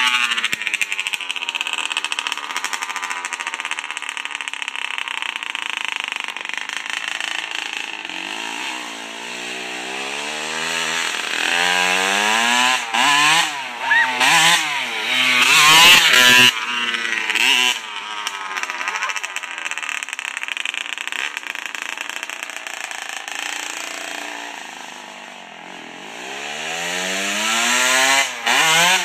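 1999 Kawasaki KX60's small two-stroke single-cylinder engine being ridden, its pitch rising and falling again and again as the throttle is opened and closed. A run of quick revs comes about halfway through, and it drops lower and quieter shortly before the end, then climbs again.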